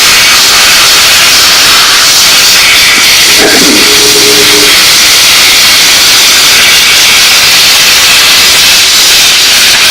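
Steam cleaner nozzle jetting steam in a loud, steady hiss, with a brief pitched sound breaking in about three and a half seconds in.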